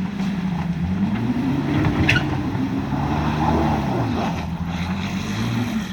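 Toyota Tacoma pickup engine labouring as the truck climbs over an obstacle, its revs rising for a few seconds and then easing back down. A short, sharp high sound, a scrape or squeak, cuts in about two seconds in.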